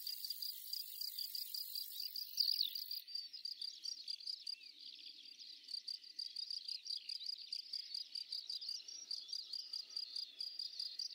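Crickets chirping in a steady, rapid high-pitched pulse, with short gliding chirps over it.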